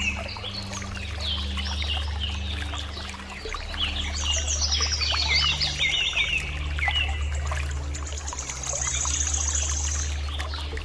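Water trickling from a miniature hand pump, over background music with steady low notes and many short, high bird-like chirps.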